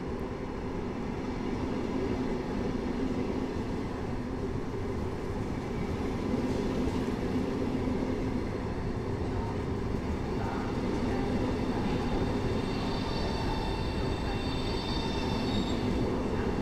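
PKP Intercity Pendolino (ED250) electric high-speed train pulling out and passing close by: a steady rumble of wheels and running gear. A high electric whine joins in about twelve seconds in.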